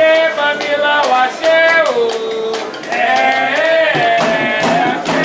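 A Candomblé chant sung by a solo voice, holding long, wavering notes and sliding between pitches, over light regular percussion clicks.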